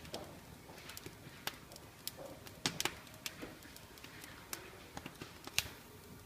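Wood fire in a fireplace crackling: irregular sharp pops and snaps over a faint steady hiss, the loudest cluster a little under three seconds in and another sharp pop about five and a half seconds in.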